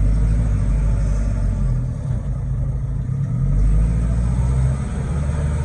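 Old large truck's engine running with a deep rumble, its note shifting up and down as it is revved.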